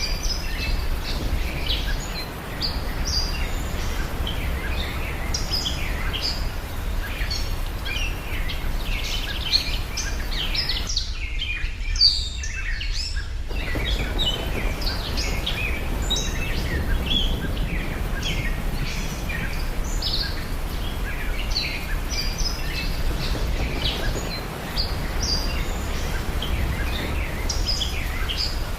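Many birds chirping and calling in quick short notes, over a steady low background noise that briefly drops out for about two seconds midway while the chirping goes on.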